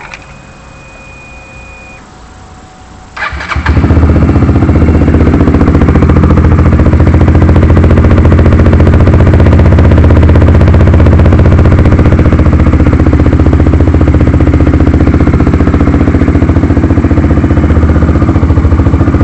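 Honda CBR125R's single-cylinder, liquid-cooled engine turned over by its electric starter about three seconds in, catching almost at once and then idling loudly and steadily through a Leo Vince aftermarket performance exhaust.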